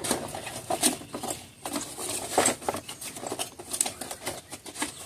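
Handling noise from packing a carburetor into its box: irregular light knocks, rustling and crinkling of the packaging.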